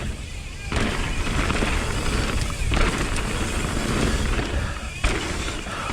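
Mountain bike riding down a dirt trail: wind rumble on the camera microphone mixed with tyre and drivetrain rattle, and a sharp thud about five seconds in.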